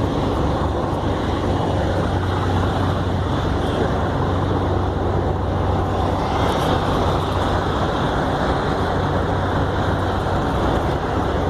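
Steady engine and traffic noise with a constant low hum, no single event standing out.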